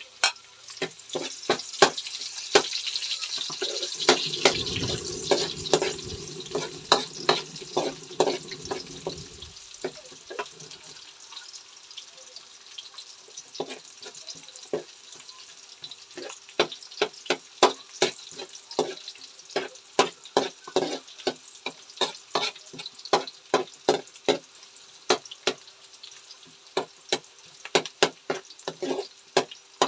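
Garlic and onion sautéing in hot oil: a sizzle, strongest in the first few seconds and then easing, with a spatula clicking and scraping against the pan many times as it is stirred. A low rumble joins in from about four seconds in until near the middle.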